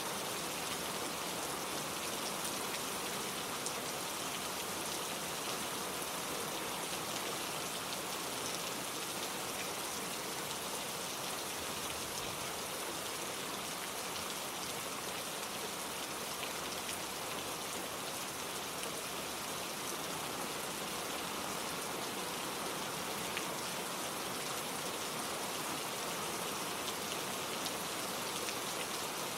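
Gentle, steady rain falling, a dense even patter of drops with no thunder.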